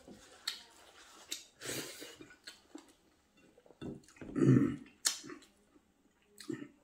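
A man eating rice and curry with his hand, close to the microphone: scattered wet mouth clicks and smacks of chewing, with one louder, lower throaty sound about four and a half seconds in.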